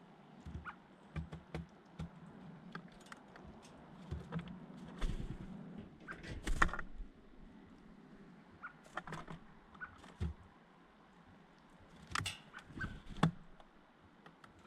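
Birds moving close to the microphone: irregular taps, clicks and scuffles, with louder clusters about six and a half and twelve seconds in.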